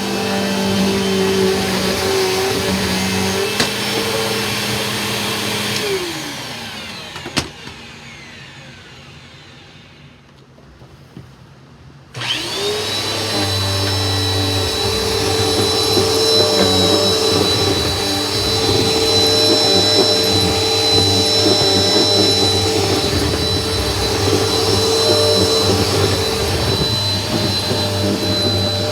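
A vacuum cleaner running, then switched off about six seconds in, its motor winding down with a falling whine, followed by a click. After a few seconds of low sound, a vacuum cleaner switches on about twelve seconds in, its whine rising quickly to a high steady pitch, and it runs steadily.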